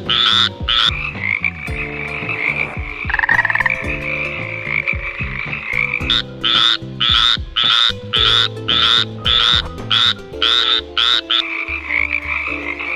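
Frogs croaking: runs of short, rapid croaks about three a second, broken by stretches of a steady high trilling chorus.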